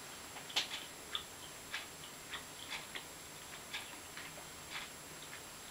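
Faint mouth-closed chewing of a bite of sauced boneless chicken wing, heard as small irregular wet clicks, with a steadier light tick about once a second behind it.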